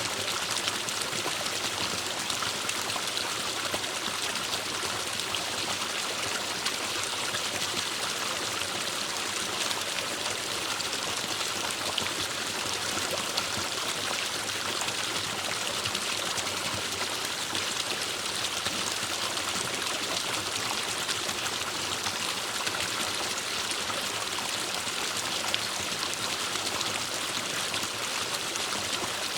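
Forest stream flowing and trickling over rocks, a steady, even rush of water.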